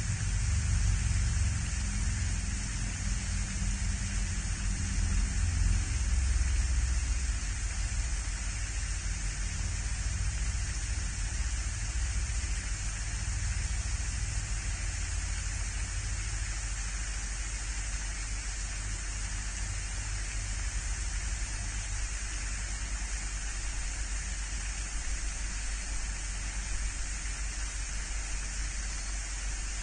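Steady outdoor hiss picked up by a pond-side livecam microphone, with a low rumble that is strongest for the first seven seconds or so and then eases off.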